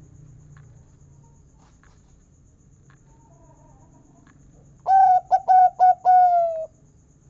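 Local perkutut (zebra dove) cooing its song about five seconds in: four short quick notes, then one longer, slightly falling final 'kung' note.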